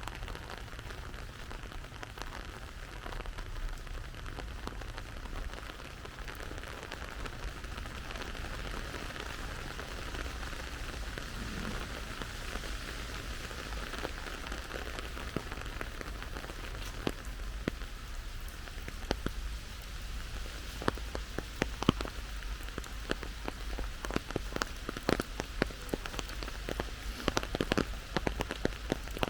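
Steady rain falling, with single drops tapping close by. The taps grow more frequent and louder in the last third.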